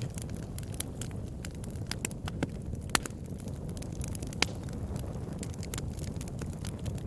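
Campfire burning with a steady low rumble and frequent sharp crackles and pops, two louder pops about three and four and a half seconds in.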